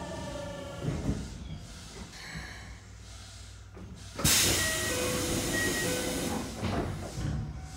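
Keikyu 1500 series train coming to a halt: the tail of the Mitsubishi GTO-VVVF inverter's falling whine dies out and a knock comes about a second in. About four seconds in, a sudden loud burst of compressed-air hiss from the stopped train's pneumatics follows and trails off over a few seconds.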